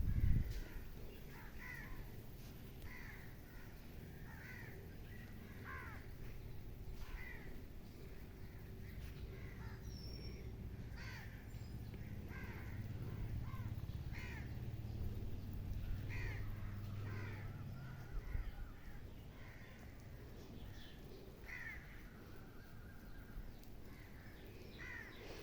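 Birds calling over and over, short calls roughly once a second, over a low background rumble that swells about halfway through.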